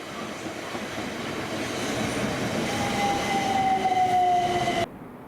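Electric multiple-unit train running through the station, growing louder, with a whine that falls slowly in pitch near the end. The sound cuts off suddenly just before the end.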